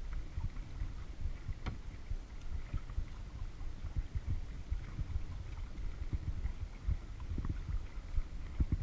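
Kayaking sounds dominated by wind buffeting a GoPro microphone: a steady, fluttering low rumble. A few faint light clicks or knocks sit on top, the clearest one just under two seconds in.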